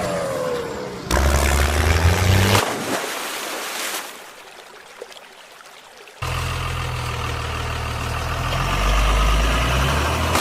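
Heavy vehicle engines running and revving in a string of clips that start and stop abruptly. There is a quieter stretch around the middle, and a steady engine runs through the last four seconds, growing louder near the end.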